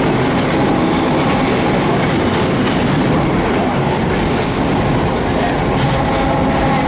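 Passenger train in motion, heard from aboard a coach: the steady running noise of the wheels on the rails.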